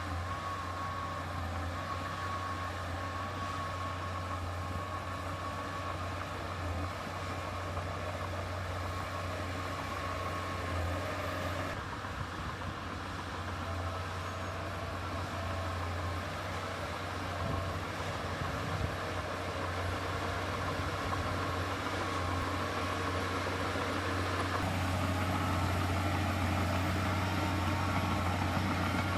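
Heavy diesel earthmoving machinery running steadily, a deep low drone with a higher whine over it, getting a little louder near the end.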